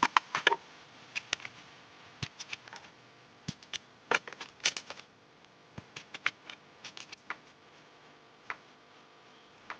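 Irregular sharp clicks and small snaps of sticks or twigs being handled and worked by hand while a bird trap is put together. They come in clusters, loudest at the start and about four to five seconds in, and sparser near the end.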